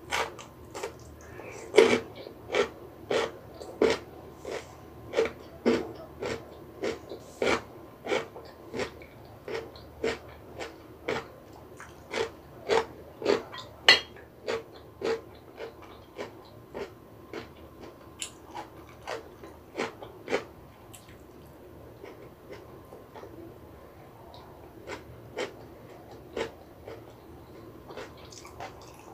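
Close-miked chewing of crisp radish kimchi: regular crunches, about two a second, growing fainter and sparser after about twenty seconds.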